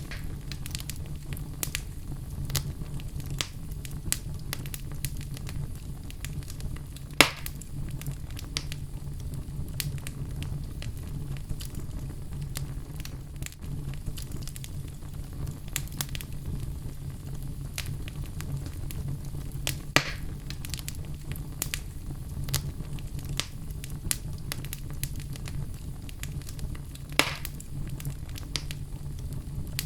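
Wood fire burning in a fireplace, crackling steadily over a low rumble of flame, with three louder pops about 7, 20 and 27 seconds in.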